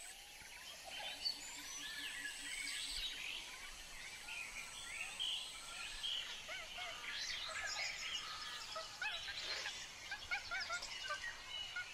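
Several birds chirping and calling over one another, with many quick, overlapping chirps.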